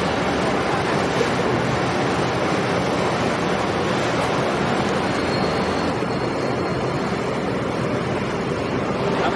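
Steady rushing noise of water and wind, without let-up, with a faint thin high tone briefly near the middle.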